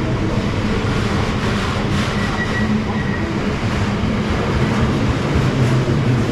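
Container freight train running past at close range: a steady, loud low rumble with wheel clatter, and a brief high wheel squeal about two seconds in.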